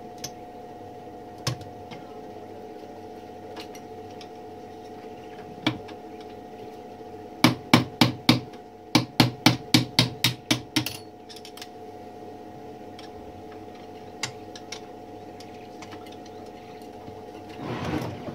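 A run of about ten sharp metal taps, roughly three a second, as a small hammer strikes a stubborn part of a 1912 Mercedes typewriter being dismantled. Scattered single clicks and a short scrape near the end sit over a steady background hum.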